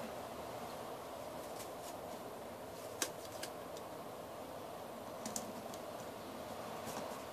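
Paper being handled and folded by hand: a few light, sharp crackles and taps of the sheet, the sharpest about three seconds in, over a steady low hiss.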